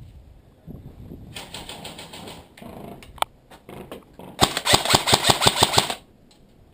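Airsoft rifle firing a rapid full-auto burst of about a dozen shots, roughly eight a second, in the second half, after scattered shorter clatter and a single sharp click.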